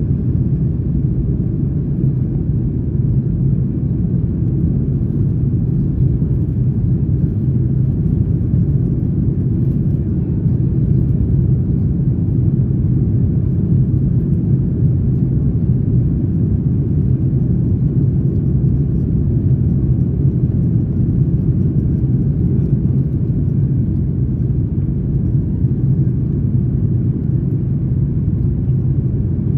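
Steady low rumble of a Boeing 737-9 MAX's engines and airflow, heard from inside the passenger cabin.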